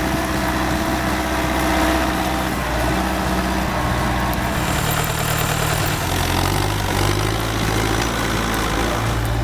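Belarus MTZ-1025 tractor's diesel engine running steadily, its note shifting slightly about six seconds in.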